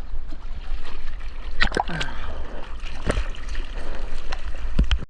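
Seawater splashing close to a GoPro as a surfer paddles out on a surfboard: several sharp splashes of the arm strokes over a steady low rumble of water on the housing.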